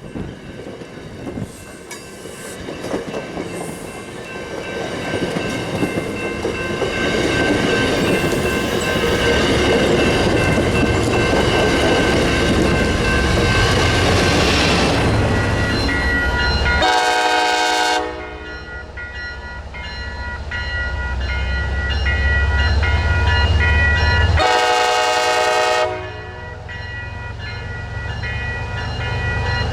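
Diesel commuter train passing, its rumble and wheel-on-rail noise building over the first several seconds. Two horn blasts sound, one about two-thirds of the way through and a longer one about 25 s in, over the continuing low rumble.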